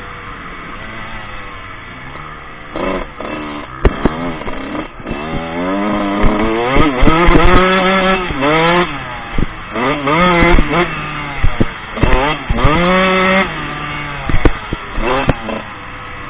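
Motocross bike engine revving up and dropping back again and again as it is ridden hard. There are several sharp knocks along the way.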